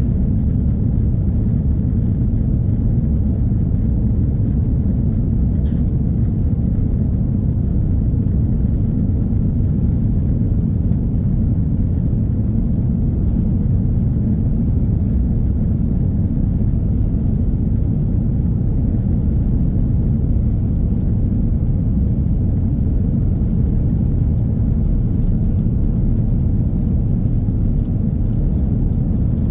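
Steady low rumble inside the cabin of an Airbus A330-300 airliner during taxi and takeoff.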